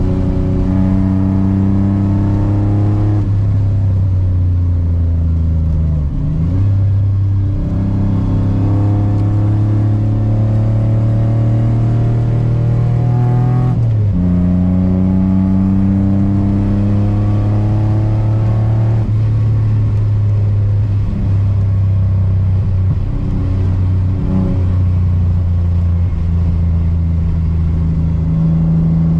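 A car's engine is heard from inside the cabin while lapping a race track at speed. Its pitch climbs steadily under throttle and drops sharply about four times, over a constant rumble.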